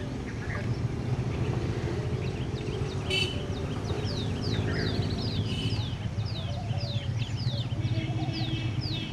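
A bird calling a rapid series of short, high notes, each sliding downward, about two to three a second, starting about three seconds in, over a steady low hum.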